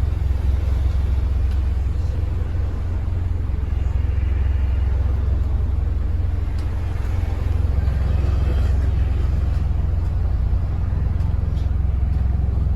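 Scania N270UD double-decker bus's diesel engine heard from on board: a steady low rumble that holds even throughout.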